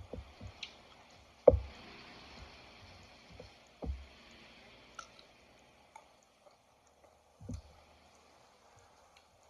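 Close-up wet chewing and mouth sounds of someone eating green mango, with a few dull thumps, the loudest about one and a half seconds in.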